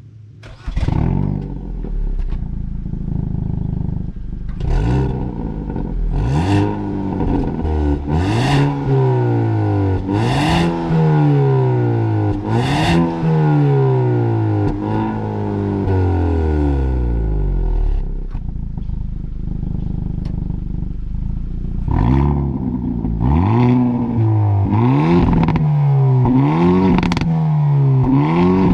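Hyundai i30 N's 2.0-litre turbo four-cylinder being driven hard through a six-speed manual. The revs climb and then drop at each gear change, with sharp cracks at several of the shifts. About halfway through it eases off and runs steadily for a few seconds, then pulls up through the gears again.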